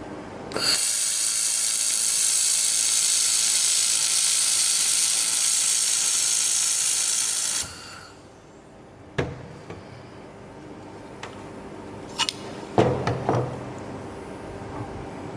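Handheld fiber laser welding gun firing on metal: a loud, steady hiss for about seven seconds that cuts off suddenly. This is followed by a few clicks and clanks of metal parts being handled.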